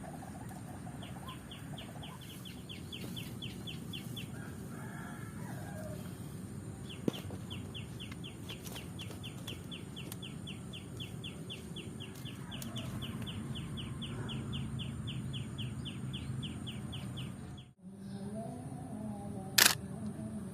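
A camera shutter firing in rapid bursts of about four frames a second: a short run about a second in, then a long run of roughly ten seconds, over a steady low background hum. One sharp click near the end.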